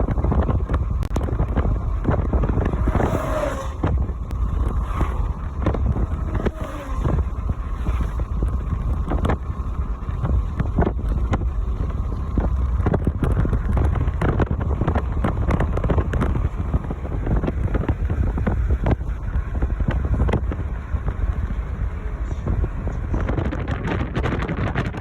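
Strong wind buffeting the microphone: a constant low rumble broken by many sudden gust thumps.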